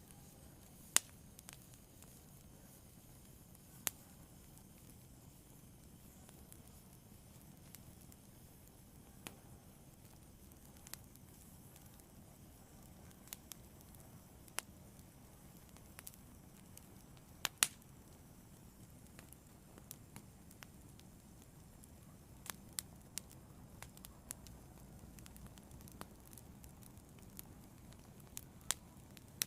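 A fire burning, with sharp crackles and pops at irregular intervals over a soft, low, steady rush.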